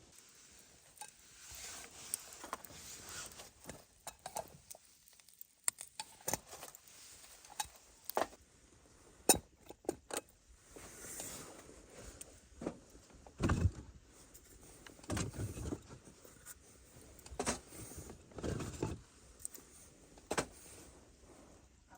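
Handling sounds: a string of sharp clicks and light knocks, with a few longer rustling scrapes and dull bumps in the second half.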